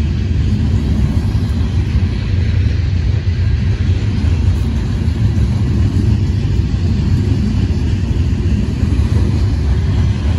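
Freight train of coal hopper cars rolling past: a steady low rumble of wheels on rail.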